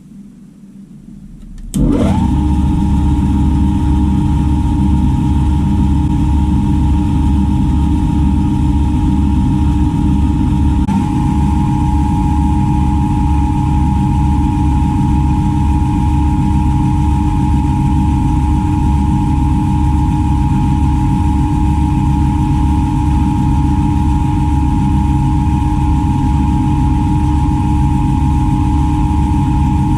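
Milling machine spindle motor starting about two seconds in and then running steadily with a steady whine, as the machine works a brass crank disc with a drill or end mill.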